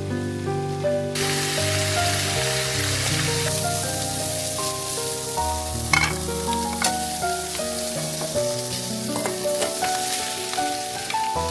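Food sizzling as it fries in a pan, the sizzle starting about a second in, with a few sharp clicks around the middle, over background music.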